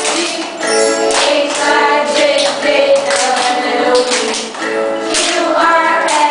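A children's English song, sung to steady instrumental backing, with young children's voices singing along.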